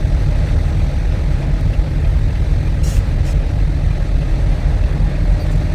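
Steady low engine and road rumble of a truck heard from inside its cab while driving, with a single short click about three seconds in.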